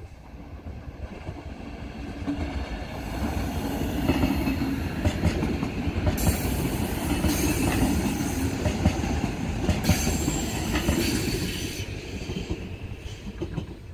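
A DB Regio BR 643 Talent diesel multiple unit, two sets coupled, passing at low speed across the points. Engine and wheel noise swell to a peak for most of the pass and fade near the end, with two short bouts of high, hissing wheel noise about six and ten seconds in.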